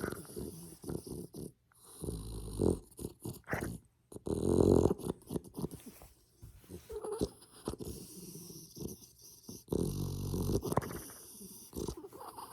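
Dog snoring in its sleep in irregular, loud, fluttering breaths, some with a growl-like edge.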